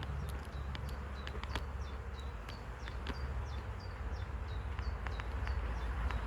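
Honeybees buzzing around an opened hive as frames are lifted, a steady hum with a few light clicks from handling. Over it runs a series of short, high, falling chirps, about two a second.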